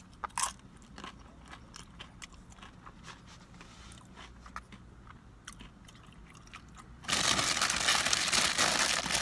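Tortilla chips crunching as they are bitten and chewed, a scattered series of crisp crunches. About seven seconds in, a loud, dense rustling noise starts and keeps going.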